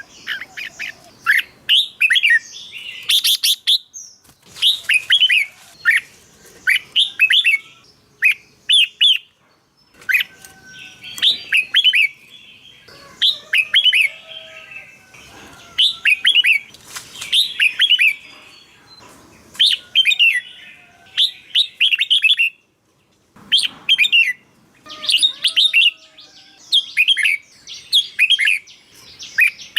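Red-whiskered bulbul singing short, quick phrases of sweeping whistled notes, repeated every second or two with brief pauses between them.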